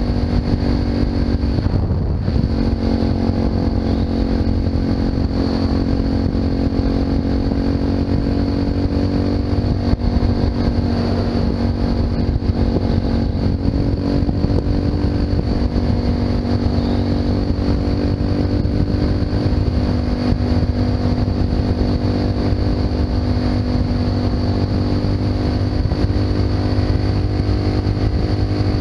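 Honda FMX650's single-cylinder engine through an Arrow aftermarket exhaust, running steadily under way, with a brief dip and recovery in revs about two seconds in.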